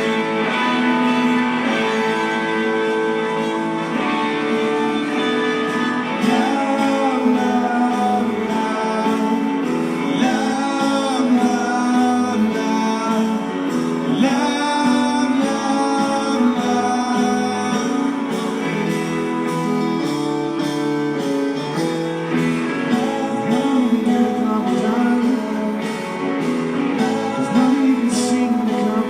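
Live rock band performance: strummed guitars with a singing voice over the band.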